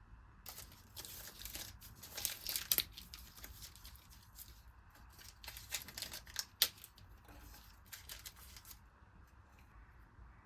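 Irregular scratchy, papery tearing and rustling from hand work on some material, with a couple of sharper clicks near the middle.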